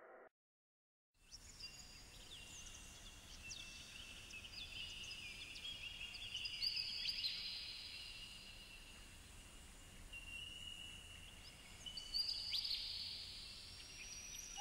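Birds chirping and calling, many high-pitched calls overlapping over a faint outdoor hiss, starting about a second in after a moment of silence.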